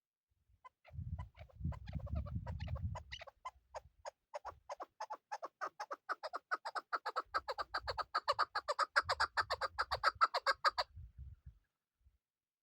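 Chukar partridge calling: a rapid series of short clucking notes, several a second, that grows louder and fuller about six seconds in and then stops abruptly near the end. A low rumble sits under the calls in the first few seconds and again later.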